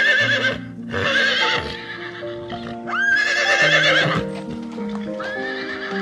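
A horse neighing: a series of about four wavering whinnies, each about a second long, over steady background music.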